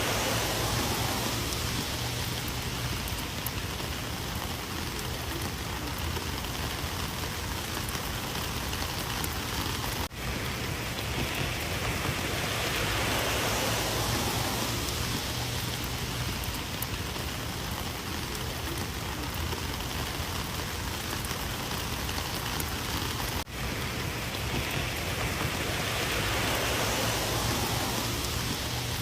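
Rain falling steadily: a continuous even hiss of drops that swells and eases slowly. It cuts out for an instant twice, about ten seconds in and near twenty-three seconds.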